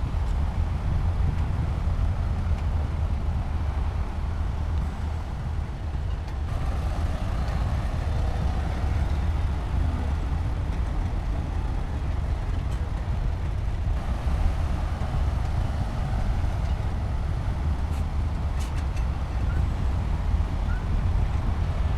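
Heavy earthmoving machinery's diesel engine running steadily under load, a deep continuous rumble.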